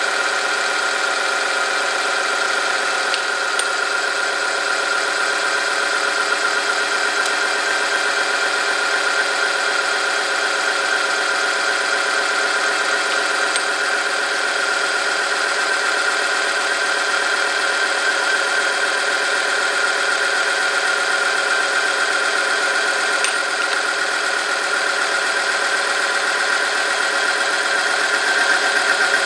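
Oil-film tester's electric motor running under load, its spinning steel part rubbing on a metal test sample in oil heated to 100°C. It makes a steady, unbroken whine.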